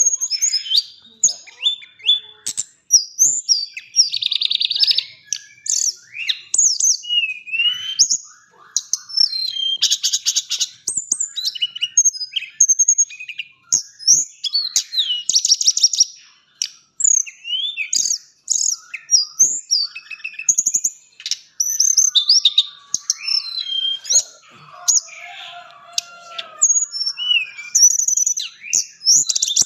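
Tledekan gunung singing a continuous, varied full song: quick whistled notes that slide up and down, chirps and fast rattling trills, one phrase after another with only brief gaps.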